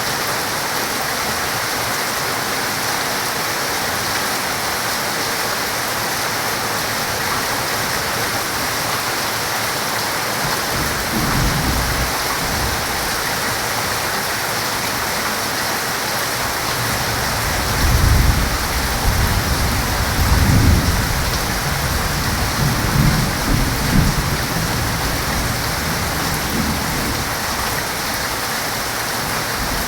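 Heavy rain falling steadily, with thunder. A short low rumble comes about eleven seconds in, and a longer rumble swells several times between about eighteen and twenty-seven seconds.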